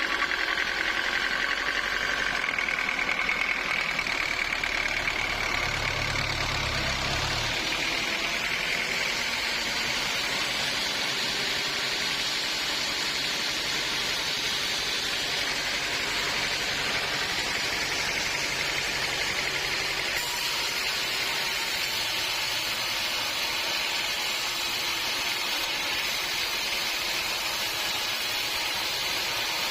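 Sawmill machinery running with a steady mechanical noise. A low hum underneath drops out about seven seconds in.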